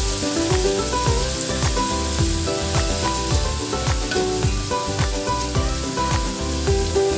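Carrots and garlic sizzling in oil in an enamelled cast-iron pan while being stirred with a wooden spatula, under background music with a steady beat.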